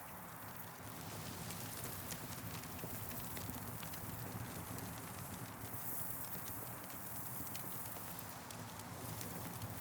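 Campfire burning: irregular sharp crackles and pops over a steady low rush.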